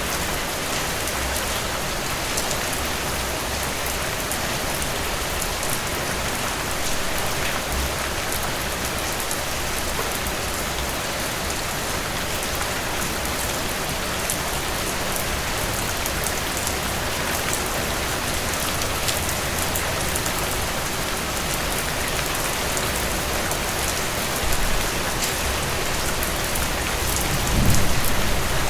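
Heavy rain pouring down steadily in a dense, even hiss, with a low rumble swelling up near the end.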